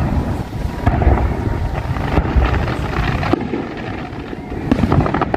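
Wind buffeting the microphone in a loud, steady low rumble, mixed with the noise of highway traffic.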